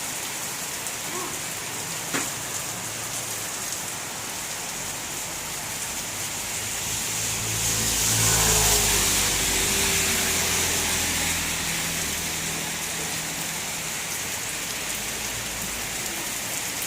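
Heavy rain falling steadily. A motor vehicle passes on the wet road, its engine and tyre hiss rising to loudest about eight seconds in and fading by about twelve seconds.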